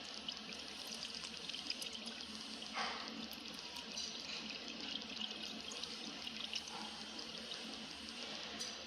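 Steady trickling pour of liquid, fairly faint, with a few small ticks and a short louder rush about three seconds in.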